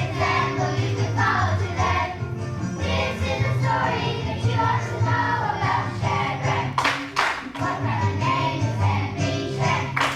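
Children's choir singing a song with instrumental accompaniment and a steady bass line. Sharp hits sound around seven seconds in and again near the end.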